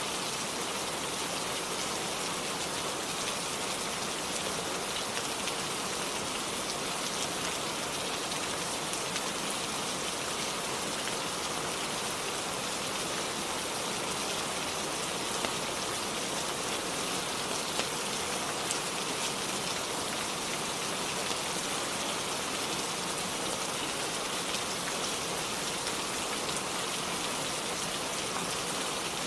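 Steady rainfall: a dense, even hiss with single drops ticking through it, unchanging throughout.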